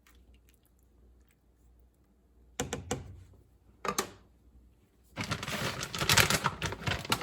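A spoon stirring soup in a pot: a few sharp clinks against the pot, then from about five seconds in a dense, louder run of scraping and clattering.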